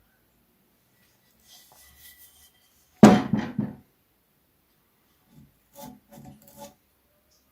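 Metal parts and tools being handled on a workbench: faint scraping, then one loud clunk with a short rattle about three seconds in, followed by three or four light knocks near the end.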